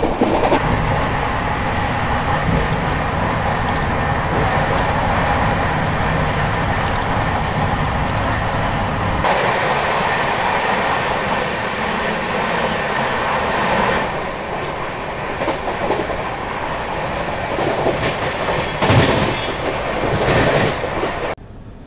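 Express train running at speed, heard at an open coach door: a steady rush of wheel and wind noise with the clickety-clack of wheels over rail joints, while it passes another train on the adjacent track. The deep rumble thins out about nine seconds in, and the sound cuts off abruptly just before the end.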